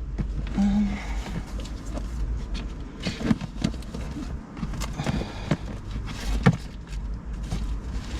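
Irregular rustling, clicks and knocks of notebooks and bags being handled and packed away, over a steady low hum.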